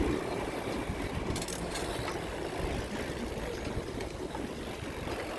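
Steady low rumble and hiss of wind on the microphone while riding a bicycle, with road noise.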